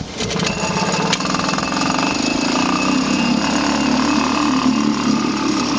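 1940 Waterwitch 3/4 hp air-cooled single-cylinder two-stroke outboard motor running steadily, with a fast, even firing rhythm; it runs well.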